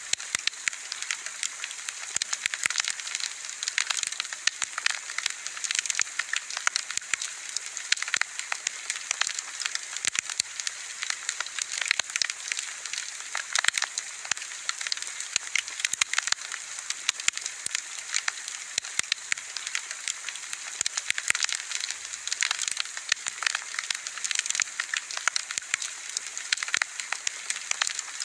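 Wood bonfire crackling steadily: a dense run of small pops and snaps over a soft hiss.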